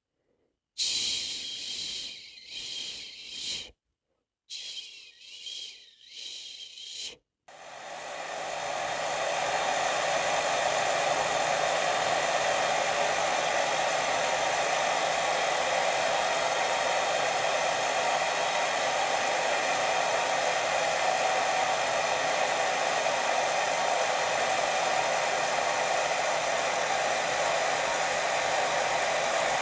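A person shushing ('shhh') in long, rhythmically swelling hisses, broken by three short silences. About seven seconds in, steady white noise fades in and holds without change.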